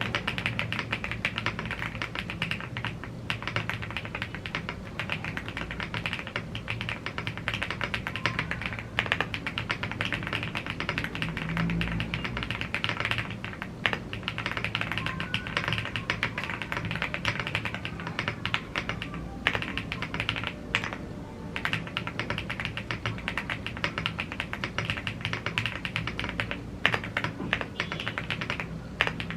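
Continuous fast typing on a gasket-mounted CNC aluminium 75% mechanical keyboard with Blue Grey tactile switches and double-shot PBT keycaps: a dense stream of key clacks with a few brief pauses.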